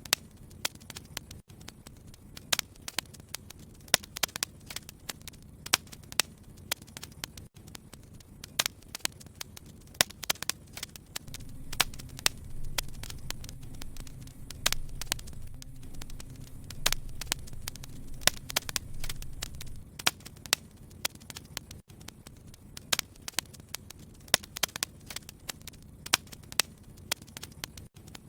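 Fireplace fire crackling, with frequent sharp, irregular pops and snaps over a low hiss. A low rumble swells in around the middle and fades out again after about nine seconds.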